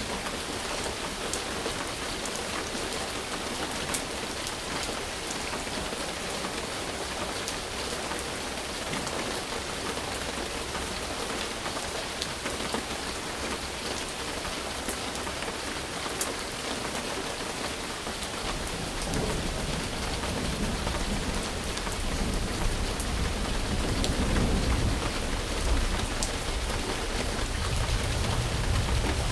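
Steady rain with scattered sharp drop ticks. About two-thirds of the way through, a low rumble of thunder comes in and grows louder toward the end.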